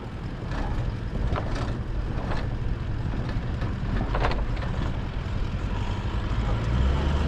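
A 200 Series LandCruiser's V8 running as the 4WD drives along an off-road track, a steady low rumble. A few knocks and rattles come through in the first half, and the rumble grows heavier near the end.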